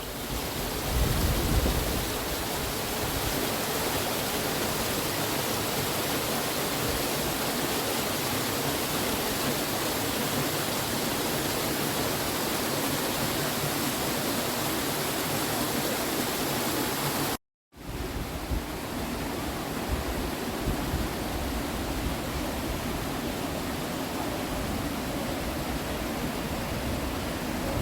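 Steady rush of water from a waterfall, a dense even noise without change, broken by a sudden dropout of a fraction of a second about seventeen seconds in.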